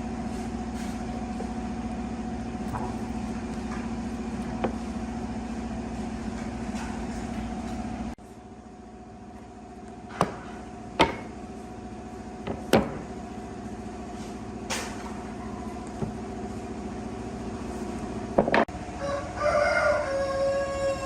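Steady machine hum that cuts off abruptly about eight seconds in, then a quieter hum with sharp knocks a few seconds apart. Near the end, a rooster crows.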